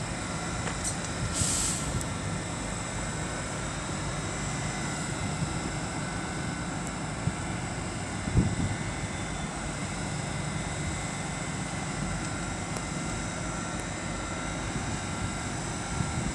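Great Western Railway Class 800 train standing at the platform, its underfloor equipment giving a steady hum with faint high tones. A brief hiss of air comes about a second and a half in.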